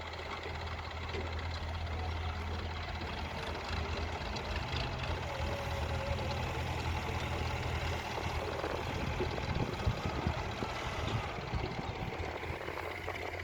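Tractor's diesel engine running steadily with a low hum, with a patch of knocking and clatter about ten seconds in.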